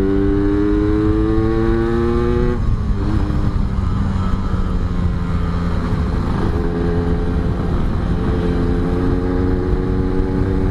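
Yamaha RX-King's two-stroke single-cylinder engine under way: the revs climb for about two and a half seconds, drop off at a gear change, then pull steadily again, rising slowly.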